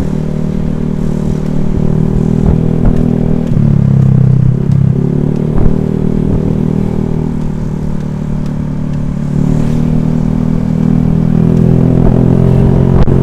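Honda Vario scooter's single-cylinder engine running under way, heard while riding. Its pitch rises about three and a half seconds in, drops back a second or so later, and rises again near ten seconds as the throttle changes.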